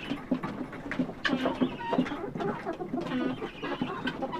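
A flock of hungry chickens clucking and calling over each other while they feed.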